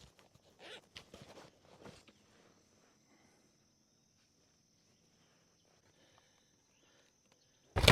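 A few faint knocks from a fish being handled on a kayak, then a faint steady high-pitched insect drone. A sudden loud commotion right at the end.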